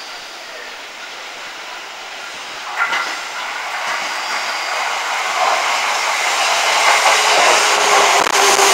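Electric commuter train pulling into a station platform. Its running noise grows steadily louder as it comes alongside, with a sharp click about three seconds in and a low steady whine near the end.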